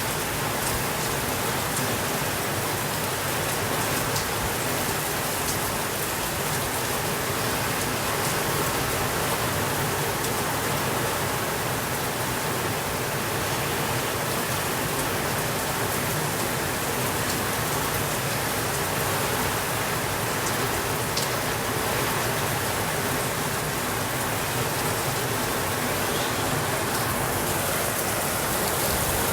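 Steady rainfall: an even, dense hiss that holds level throughout, with occasional faint high ticks.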